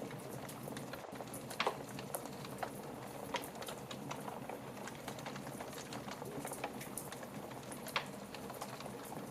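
Wood fire crackling in a fireplace: a steady soft hiss with irregular small crackles and two louder pops, one near the start and one near the end.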